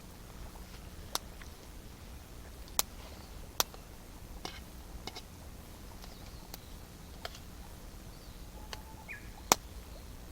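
Wood campfire crackling, with a few sharp, irregularly spaced pops over a low steady background; the loudest pop comes near the end.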